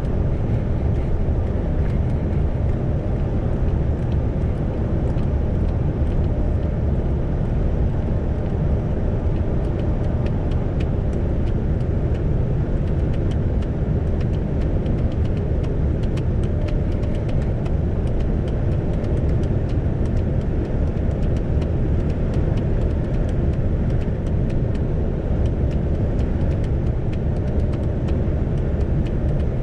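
Isuzu Giga heavy truck's diesel engine and tyre noise heard from inside the cab, a steady low rumble while cruising at an even speed on the expressway.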